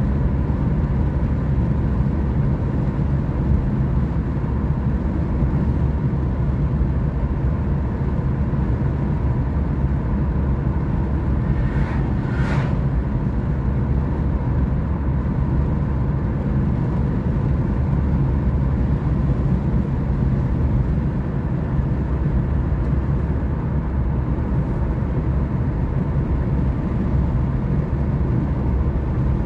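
Car driving at a steady speed: an even rumble of engine and tyres on the road. A brief whoosh rises and falls about twelve seconds in.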